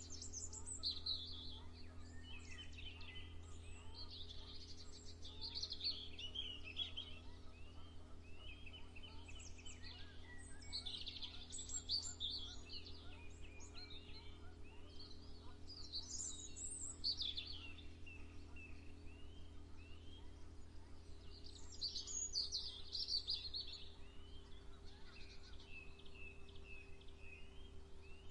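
Songbirds singing in bursts of bright chirping phrases that come every few seconds, over a steady low background hum.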